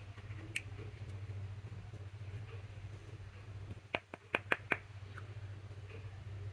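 Slime popping and clicking as it is pressed and mixed: one sharp click near the start, then a quick run of about five clicks a little before the end, over a steady low hum.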